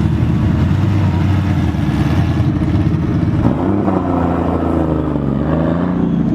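Car engine running loud and steady. About halfway through, its note rises and then eases back down.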